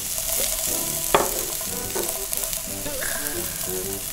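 Minced ginger and green onion sizzling in hot oil in a pot, stirred with chopsticks, as the aromatics are fried into scallion oil. There is a single sharp knock about a second in.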